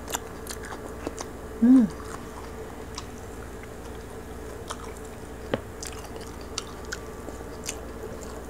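Close-up chewing and biting of roast pig's head (lechon) meat and skin, with scattered small clicks from the mouth and from the meat being torn by hand. A short hum about two seconds in.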